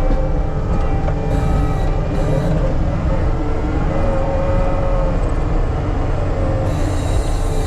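Diesel engine of heavy earthmoving equipment running steadily under load, with a hydraulic whine that drifts slightly in pitch and a few short bursts of hiss.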